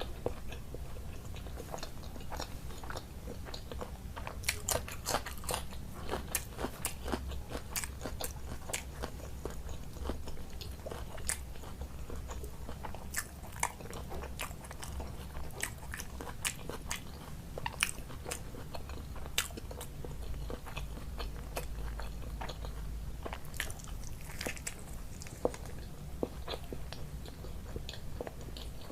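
A person eating close to the microphone: chewing and biting, with many short sharp mouth clicks, over a steady low hum.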